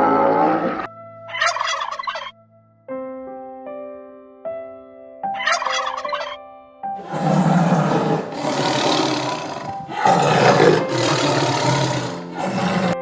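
Domestic fowl calling: two short rattling calls, then louder, longer stretches of calls in the second half.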